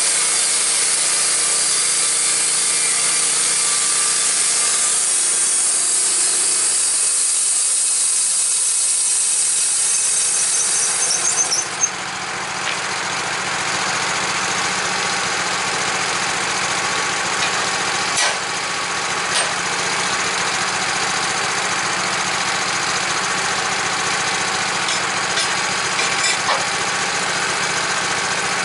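Steady motor-driven machine noise that changes abruptly about twelve seconds in to a different steady running sound, with a few light clicks later.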